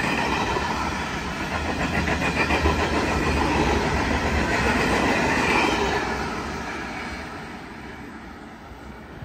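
Hunter Valley coal train's hopper wagons rolling past on the rails, a steady noise of wheels on track that fades from about six seconds in as the last wagons draw away.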